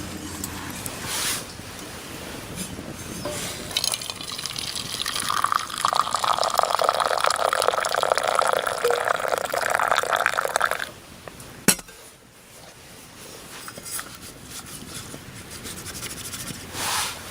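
Liquid being poured into a container for about five seconds, stopping suddenly, followed by a single sharp click.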